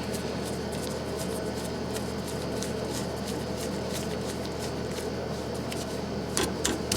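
A steady low hum, with faint scattered ticks and a few sharper light clicks about six seconds in.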